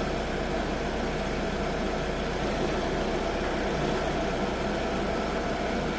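Holder C70 compact tractor engine idling steadily.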